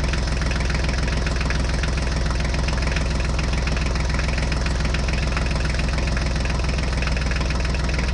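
A heavy vehicle's engine idling steadily, with a fast, even pulse and no change in speed.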